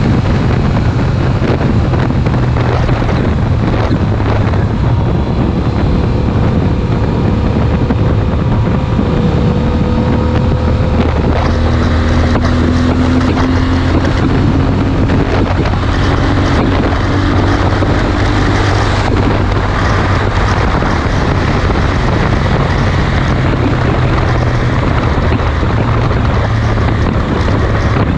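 Yamaha Super Ténéré parallel-twin running steadily at motorway cruising speed through a Mivv Speed Edge aftermarket exhaust, with heavy wind noise buffeting the microphone.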